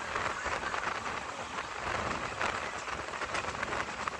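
Passenger train running at speed, heard from on board: a steady rushing hiss of wheels on rail and air rushing past, with a fine crackle through it.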